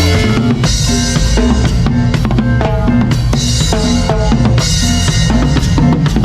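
Live cumbia band playing, with the drum kit's bass drum and snare on a steady beat over held bass and melody notes.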